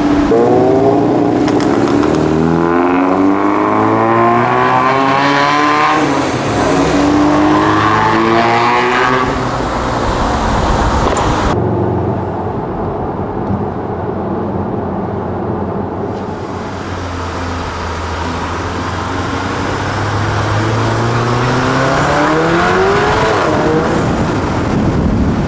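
A car engine accelerating, its pitch rising three times: twice in the first ten seconds and once more near the end. A lower, steadier engine sound runs in between.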